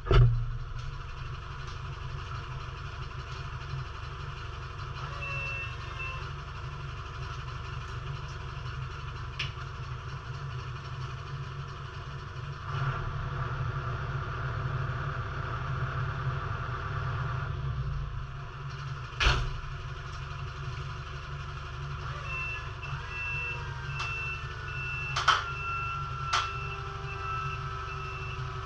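A working machine's engine running steadily while its reversing alarm beeps in two spells, briefly about five seconds in and again through the last six seconds. Several sharp metal clunks stand out, the loudest about two-thirds of the way through.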